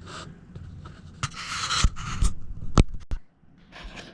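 Hand-handled objects being moved and rummaged through: scraping, a rustle and a few sharp knocks. The sound cuts out briefly about three seconds in.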